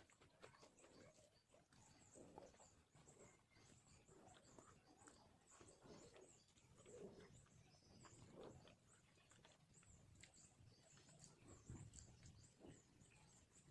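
Near silence, with faint, rapid high chirps throughout and a few soft low sounds.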